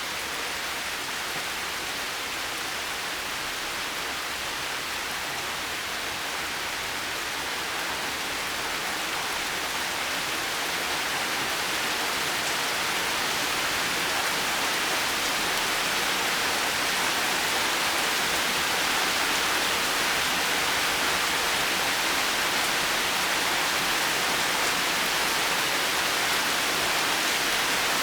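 Heavy rain falling in a steady, even hiss, with no thunder or separate drops standing out; it grows gradually louder through the middle.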